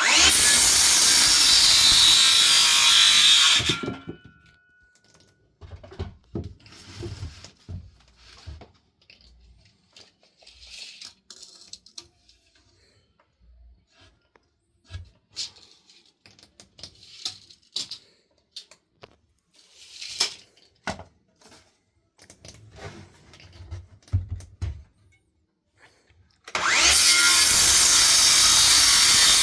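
A power tool runs in two loud, steady bursts: about four seconds at the start and about three seconds near the end. Between them come scattered clicks, scrapes and knocks of handling.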